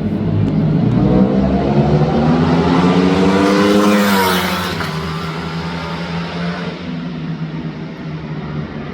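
Ducati Panigale V4's V4 engine revving up with its pitch climbing for about three seconds, then falling away about four seconds in and settling to a steadier, lower, quieter note.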